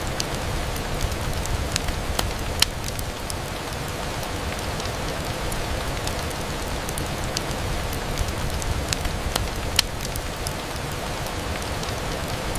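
Steady rain on a window glass, with a low rumble underneath and scattered sharp ticks. The two loudest ticks come about two and a half seconds and ten seconds in.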